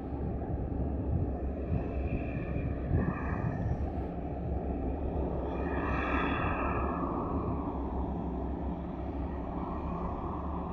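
3M62U diesel locomotive's two-stroke V12 engines labouring steadily under full load as it crawls up a steep grade with a very heavy train. A brief high-pitched squeal rises over the drone about two seconds in and again around six seconds.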